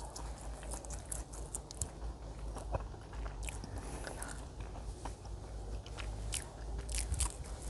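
Close-miked chewing of a chewy pan-fried pig-blood pancake (seonji jeon made with buckwheat batter), with wet mouth clicks and smacks; a fresh bite into the pancake near the end brings a cluster of louder clicks.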